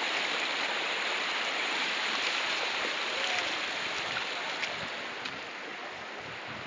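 Rushing floodwater: a steady wash of water noise that eases off a little about five seconds in.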